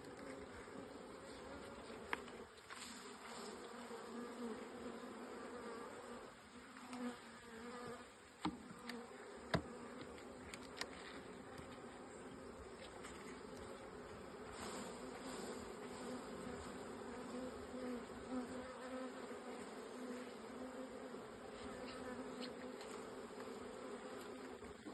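Honeybees buzzing steadily in a dense swarm around an open hive as bees are shaken off the frames, with a few sharp knocks.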